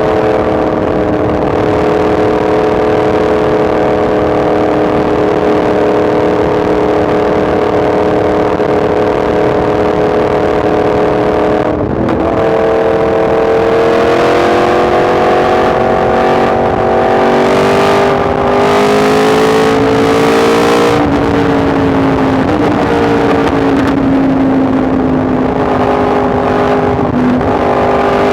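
Yamaha MT-10 SP's crossplane inline-four engine running under way at steady revs. There is a brief break about twelve seconds in, like a gear change, then the revs climb slowly, drop around twenty-one seconds, ease lower and rise again near the end.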